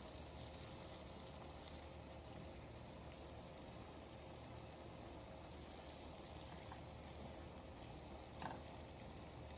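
Tandoori chicken pieces frying in oily masala in a nonstick pan, a faint steady sizzle. About eight and a half seconds in, the spatula makes a brief sound against the pan.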